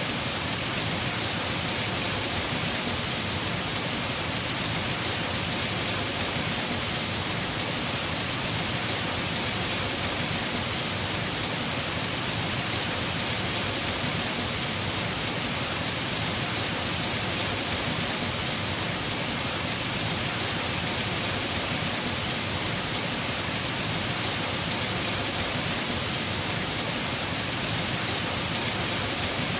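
Heavy rain falling steadily on a house roof, an even, unbroken hiss of drops.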